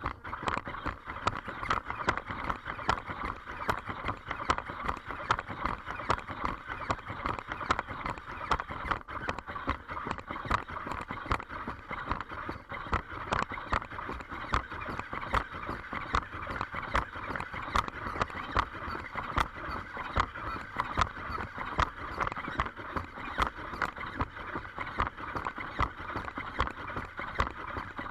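A 3D-printed quadruped robot dog walking: its feet tap quickly and irregularly, several times a second, over a steady whine from its servo motors.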